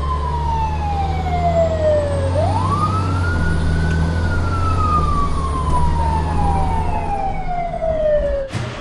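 Emergency-vehicle siren winding down in a slow falling wail, winding back up about two seconds in, then falling slowly again, over a steady low engine rumble. A sharp knock comes just before the end.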